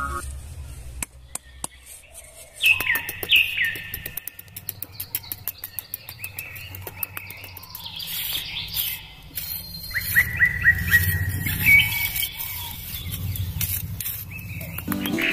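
Birds chirping: repeated short calls that sweep down in pitch, with quick runs of ticking between them over a low steady hum.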